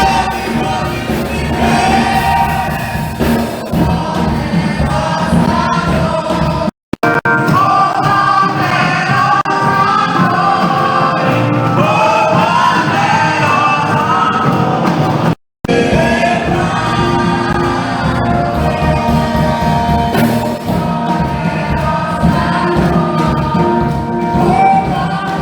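Church choir singing a gospel song with instrumental backing. The sound cuts out completely for a split second twice, about 7 and 15 seconds in.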